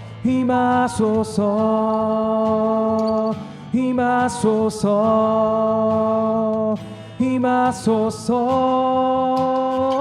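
A slow Korean worship song being sung, with long held notes in phrases of a few seconds.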